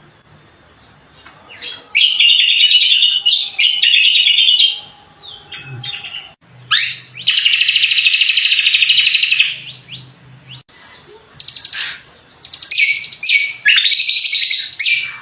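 Cucak kombo songbird singing gacor, loud and continuous: rapid trilled phrases in bursts, with one long trill from about seven to nine and a half seconds in.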